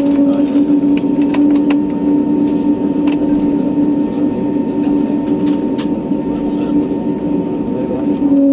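Steady drone of an airliner's engines and airflow heard inside the passenger cabin, with a constant low hum and a few faint clicks.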